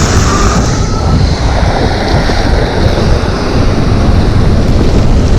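Loud, steady rush of wind buffeting the microphone on a moving e-bike.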